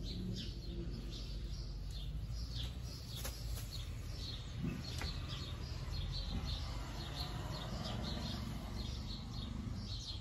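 Small birds chirping, short high-pitched chirps repeating a few times a second, over a steady low rumble.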